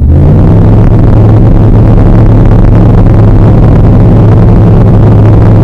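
Light aircraft's piston engine at full takeoff power, loud and steady, after a brief rise in pitch at the very start.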